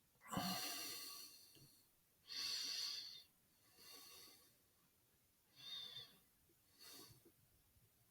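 A person breathing close to the microphone: about five short breaths, a second or so apart, some with a slight whistle.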